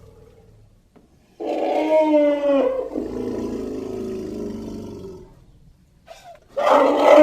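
Elephant calling: a loud, pitched call begins about a second and a half in and trails into a lower, fading tone. A second loud call starts near the end.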